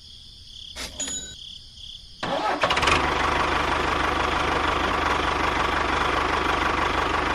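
The DIY model tractor's motor switches on about two seconds in and then runs steadily with a dense buzz and a low hum.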